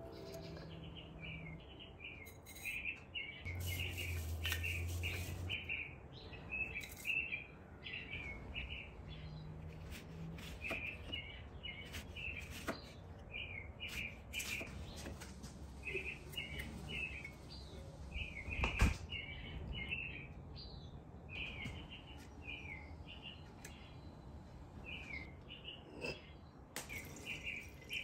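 A small bird chirping in short twittering phrases again and again, with scattered light clicks and one sharper knock about two-thirds of the way through.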